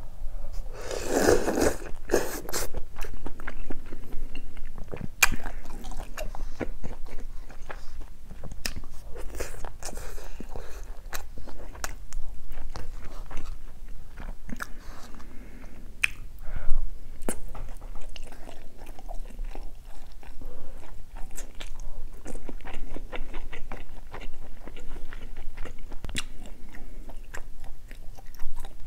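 A person chewing and biting mouthfuls of spicy beef-intestine and chicken stew with rice, full of irregular wet smacks and clicks, loudest about a second in as a big mouthful goes in.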